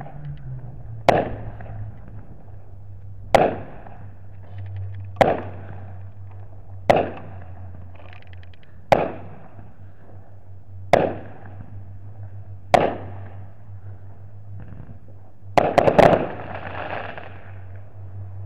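Aerial fireworks going off: seven sharp bangs, each with a short echoing tail, about two seconds apart, then a quick cluster of bangs about sixteen seconds in followed by a longer rush of noise. A steady low hum runs underneath.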